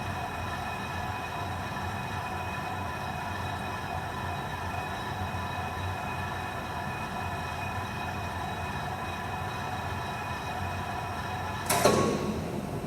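Steady industrial machinery hum with several constant tones, from the graphite furnace equipment running. Near the end a sudden loud clang rings out and dies away over about a second.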